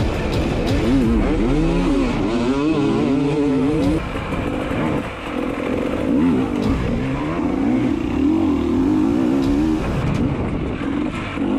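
Dirt bike engine sound revving, its pitch rising and falling over and over, with a brief dip about four seconds in.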